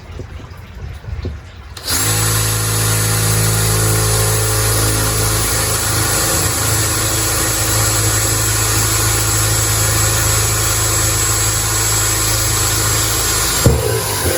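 Electric drill boring a drainage hole through a planter, starting about two seconds in and running steadily at an even pitch. A sharp knock sounds near the end as the drill stops.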